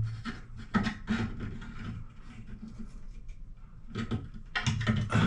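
Irregular small clicks, knocks and rubbing of a screwdriver and screws being worked on the tankless water heater's control panel cover.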